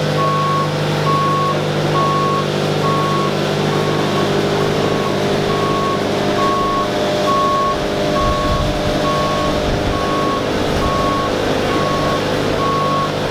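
Back-up alarm beeping steadily about twice a second over the steady running of a heavy vehicle's engine as it reverses.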